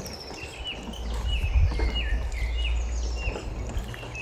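Short, high chirping calls from birds, repeated every half second or so, over a low rumble that swells about a second in and eases near the end.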